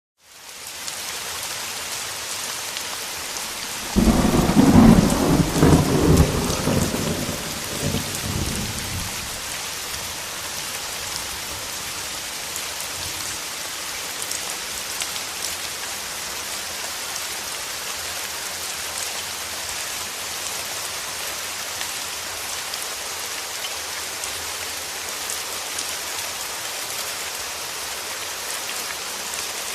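Steady heavy rain hissing throughout. About four seconds in, a sudden loud thunderclap rolls into a low rumble that fades over about five seconds. Another peal of thunder begins near the end.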